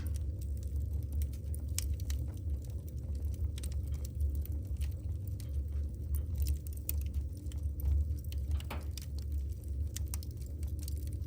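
Wood fire in a fireplace crackling: logs popping and snapping in quick, irregular clicks over a steady low rumble of the flames, with a brief hiss about nine seconds in.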